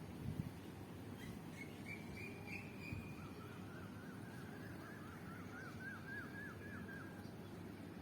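A bird calling: a short high trill about two seconds in, then a run of quick repeated notes, about four a second, over a faint steady low rumble.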